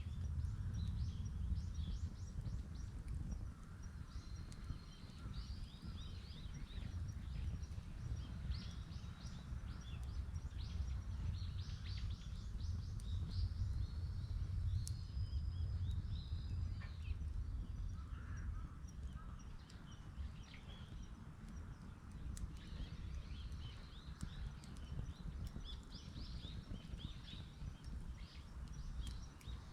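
Outdoor ambience beside a wood bonfire: a steady low rumble with a few faint sharp pops, while small birds chirp and sing throughout.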